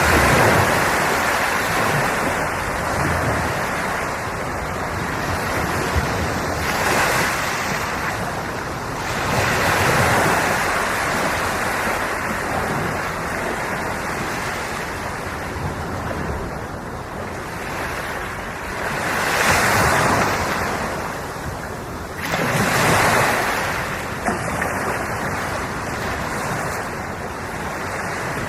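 Ocean waves breaking and washing on the shore, a steady rush of surf that swells several times, every few seconds.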